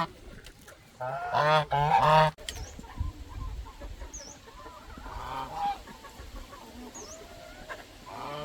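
Geese honking: a quick series of three or four loud calls about a second in, then quieter honks later on. Three faint, short high chirps come in between.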